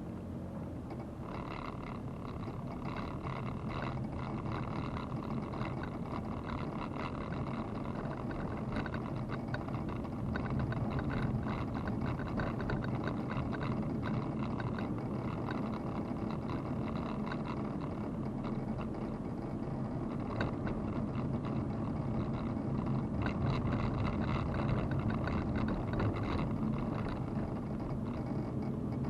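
Car engine running with road and tyre noise, building slowly in level.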